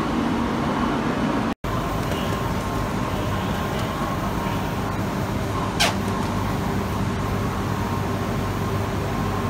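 Steady hum and whir of a Shinkansen train standing at the platform, its air-conditioning and on-board equipment running. A short falling whistle comes about six seconds in.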